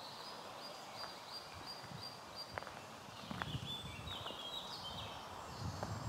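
Small birds singing: a run of short, high, evenly repeated notes, about three a second, then a warbling phrase midway. Soft footsteps on the ground come in during the second half.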